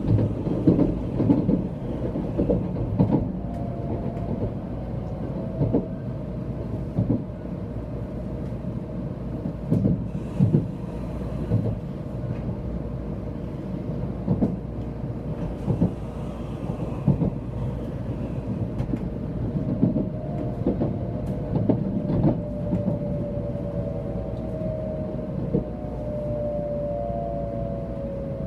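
Interior running noise of a 700 series Shinkansen train: a steady low rumble of wheels on rail with irregular knocks as the wheels pass over joints. A faint whine drifts slowly down in pitch in the second half.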